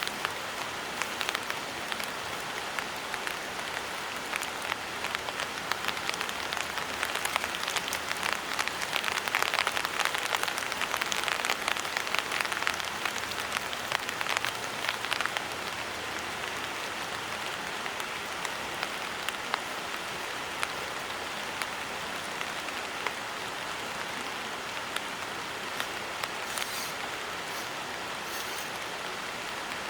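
Rain falling steadily, a dense hiss of many separate drop hits, heavier for several seconds in the middle before easing back.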